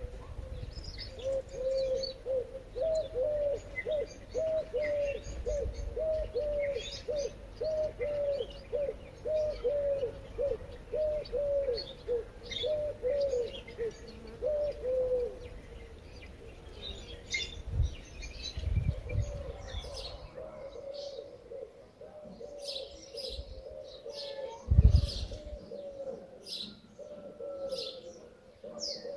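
Birds calling: a low, falling note repeated quickly, about every half second, through the first half, with high chirps scattered throughout and thicker near the end. There is a loud low thump about 25 seconds in.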